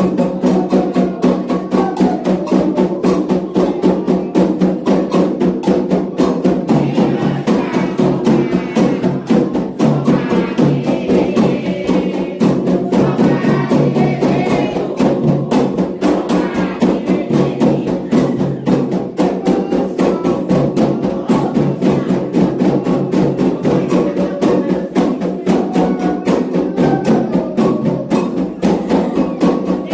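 Candomblé ritual music: atabaque hand drums and a struck bell keeping a fast, steady rhythm, with voices singing over it for several seconds in the middle.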